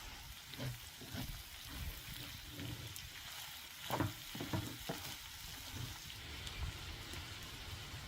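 Food frying in hot oil, a steady sizzle, with a few knocks from a utensil stirring in the pan, loudest about four seconds in.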